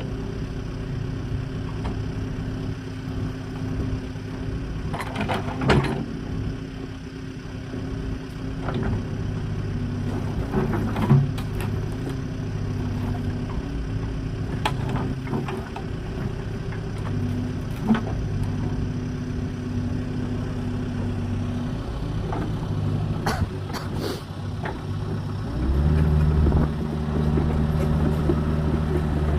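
Diesel engine of a small agricultural excavator running steadily, with a few sharp knocks of the machine working. About 26 seconds in the engine note steps up and gets louder, as it takes on load.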